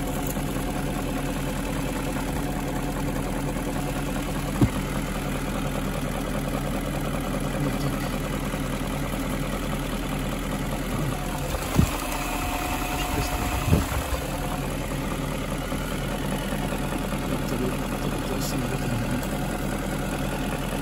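BMW 740i E38's 4.4-litre V8 idling steadily while warming up after a cold start. Three short, sharp knocks stand out over the idle, about four and a half, twelve and fourteen seconds in.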